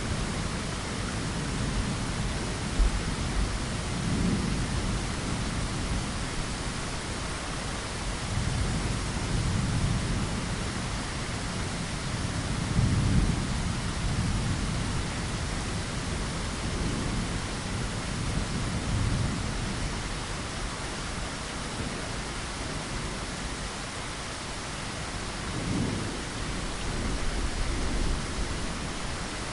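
Steady rain falling, with low rolling thunder swelling and fading several times.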